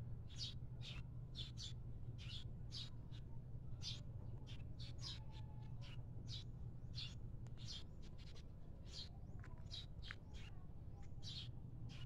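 Birds chirping: many short, high chirps, a few every second, over a steady low hum.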